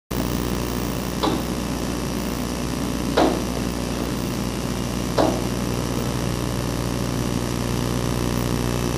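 A small bird striking window glass three times, about two seconds apart, each strike a sharp knock. Under it runs a steady motor hum.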